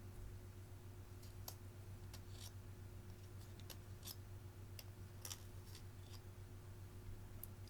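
Clear slime being pressed and folded by hand, giving faint, irregular clicks and pops, about a dozen scattered through the few seconds.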